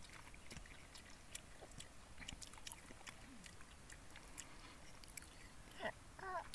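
A young child chewing food, with faint scattered clicks and smacks of eating.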